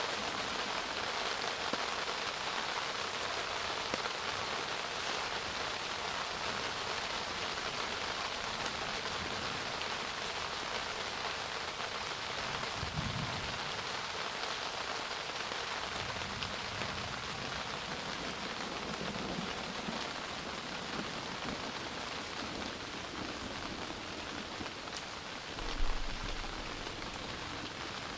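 Steady rain falling, an even hiss of drops, with a brief low thump near the end.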